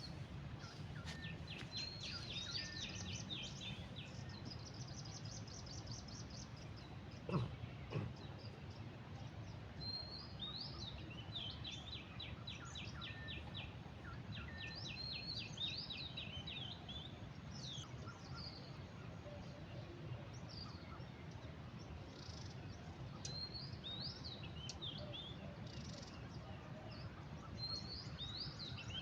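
Several birds calling: fast, evenly pulsed trills and short rising-and-falling chirps, repeating throughout over a steady low background rumble. Two sharp clicks stand out about a quarter of the way in.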